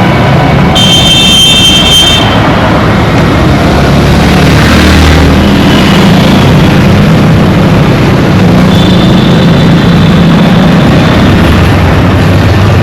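Dense road traffic: vehicle engines running steadily under a wash of traffic noise, with a vehicle horn sounding for about a second and a half near the start and a fainter high tone later on.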